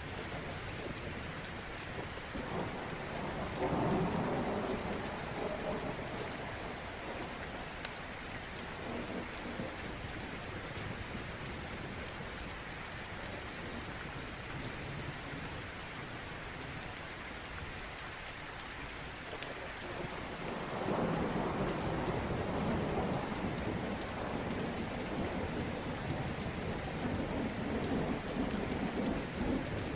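Steady rain with thunder rumbling twice, the first rumble about four seconds in and a longer one from about twenty-one seconds on. Faint scattered crackles from a wood fire run underneath.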